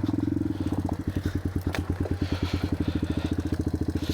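Single-cylinder four-stroke engine of a 1987 Yamaha TW200 dirt bike running steadily under way, with an even train of firing pulses.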